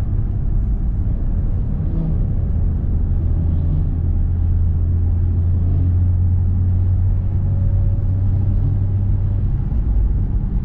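Car engine and road noise heard from inside the cabin while driving: a steady low drone that holds strongest through the middle and eases off near the end.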